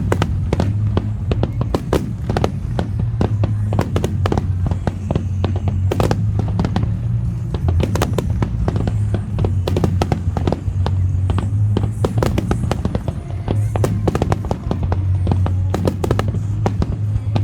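Aerial fireworks going off in rapid succession, many sharp bursts and cracks a second over a steady low rumble, with music playing alongside.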